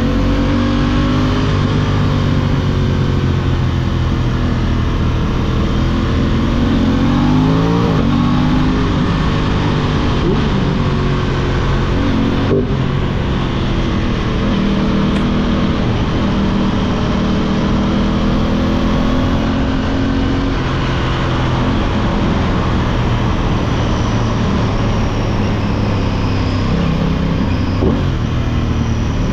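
Aprilia 660 parallel-twin motorcycle engine running under way, its pitch rising and falling with the throttle and climbing sharply about seven seconds in.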